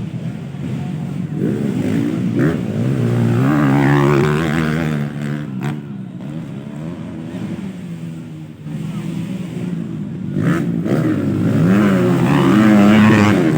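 Motocross bikes racing past, their engines revving up and down through the gears. The sound swells as bikes pass about four seconds in and again near the end, easing off between.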